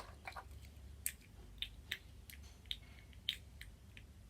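Small plastic Lego pieces clicking and tapping as they are handled and set down, a scatter of short sharp clicks at irregular intervals.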